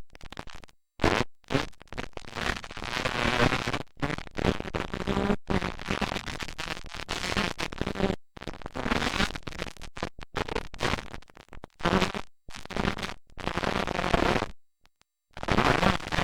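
Dirt bike engines running, heard as harsh, distorted noise with a faint engine tone underneath. The sound cuts out to nothing for brief moments several times.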